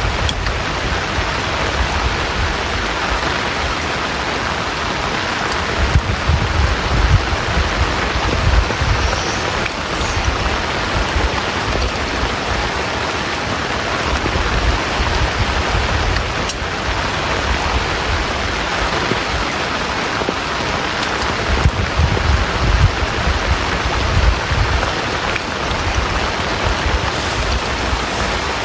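Heavy rain pouring steadily in a dense, even hiss, with low rumbling gusts of wind swelling twice, about six and twenty-two seconds in.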